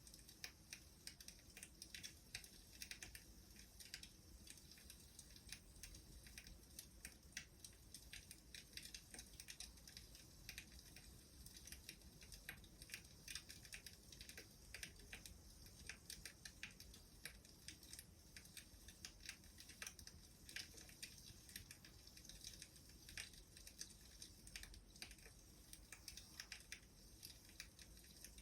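Faint wood fire crackling: a steady stream of small, irregular pops and snaps.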